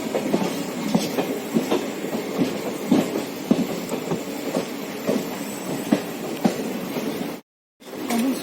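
Express passenger train running at speed: a steady rumble with irregular clicks and knocks of the wheels over the rail joints. The sound cuts out completely for a moment near the end.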